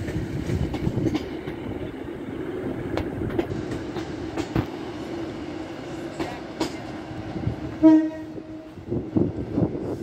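Trains in a station: a steady running hum with scattered wheel knocks over rail joints, and a short train horn note about eight seconds in, the loudest sound.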